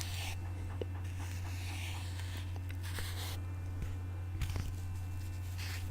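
Faint scratching with a few light taps and clicks, a small cluster of them past the middle, over a steady low hum.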